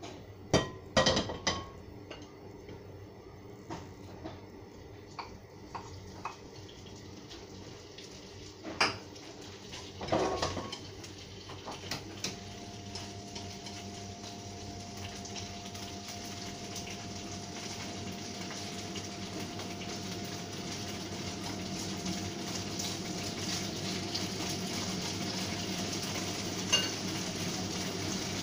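A wok and metal utensils clank sharply on a gas stove several times. Then pork frying in hot oil in the wok gives a steady sizzle that starts about halfway through and slowly grows louder, with chopsticks tapping now and then.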